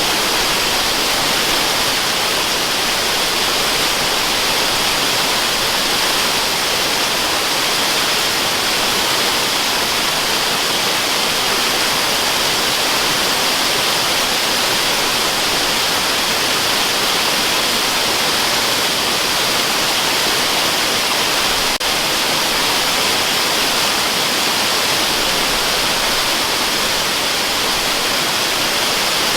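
Waterfall running steadily: an even, unbroken hiss of falling water, strongest in the upper range.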